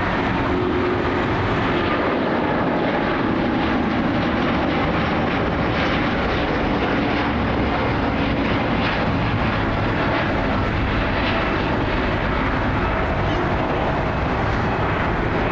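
Boeing 787 Dreamliner's twin jet engines running loud and steady as the airliner passes near the runway.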